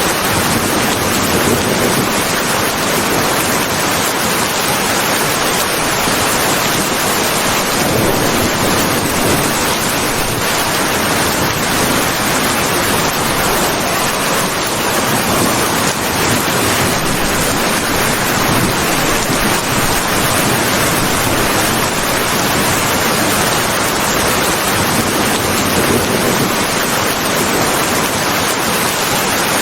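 Steady rain falling, a dense even hiss that swells gently in its lower part now and then.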